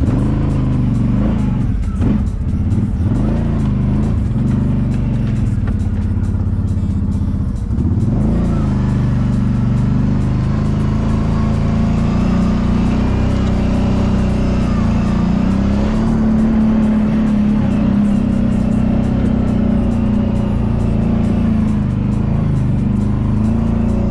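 Kawasaki Brute Force 750 ATV's V-twin engine revving up and down for the first several seconds of trail riding, then running at a steadier pace, with background music over it.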